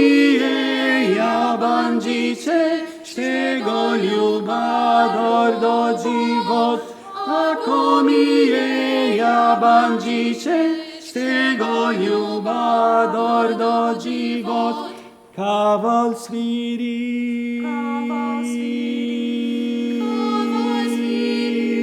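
A cappella vocal ensemble singing: short rhythmic phrases in several voices, then, after a brief break about 15 seconds in, a long held low chord with a higher melody moving above it.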